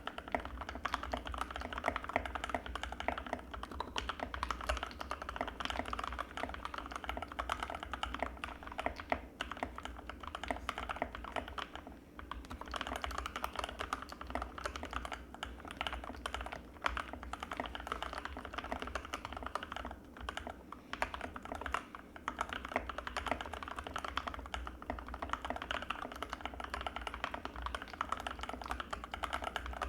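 Continuous fast typing on an Anne Pro 2 mechanical keyboard with Gateron Red linear switches: a dense run of soft keystroke clacks, with brief pauses about twelve seconds in and again around twenty seconds in. A low steady hum sits under it.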